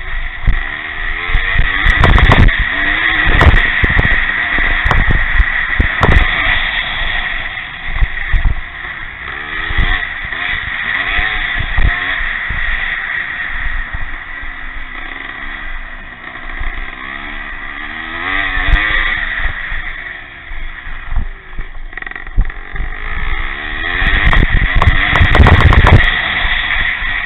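Vintage pre-1965 motocross motorcycles racing, their engines revving up and down repeatedly as the bikes work round the track.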